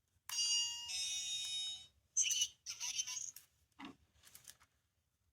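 A small sound-making capsule toy playing electronic sounds through its tiny speaker: a chime of several steady tones lasting about a second and a half, then a few short separate sounds.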